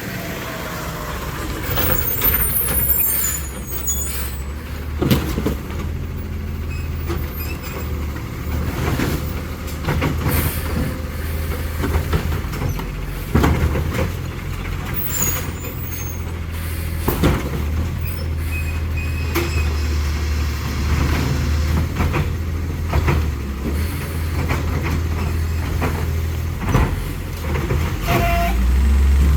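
Autocar ACX New Way Sidewinder side-loader garbage truck's engine running steadily, with air brakes hissing and sharp knocks every few seconds from the truck working through its pickups.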